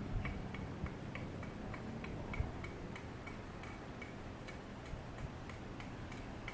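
Faint regular ticking, about three ticks a second, over a low steady hum.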